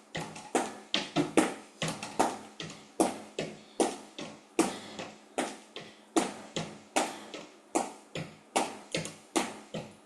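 Quick footfalls of running shoes striking a hard floor during a fast cardio move, about three sharp steps a second in an uneven rhythm.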